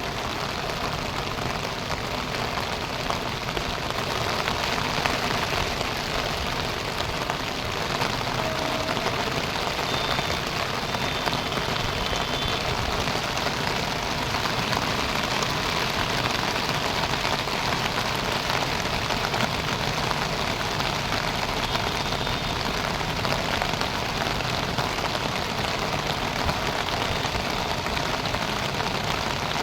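Heavy rain falling steadily, an even hiss of downpour, with a few faint brief tones around a third of the way in.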